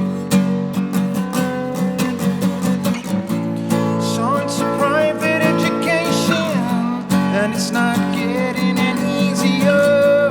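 Acoustic guitar strumming a song's instrumental intro, with regular strokes.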